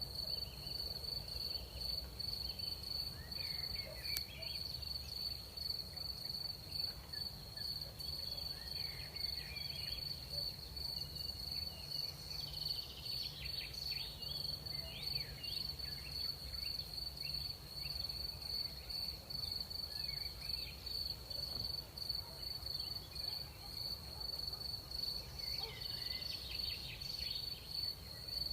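Night-time field crickets trilling in one steady, high, continuous chorus, with shorter sweeping insect calls coming and going, in clusters about halfway through and again near the end. A low rumble of night air lies underneath.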